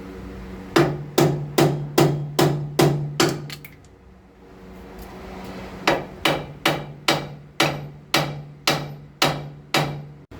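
Two runs of ringing hammer blows on steel, about seven then about ten at roughly two to three a second, with a pause between. The blows are struck at a car's lower ball joint and steering knuckle to break the ball-joint taper loose; it has not yet come free.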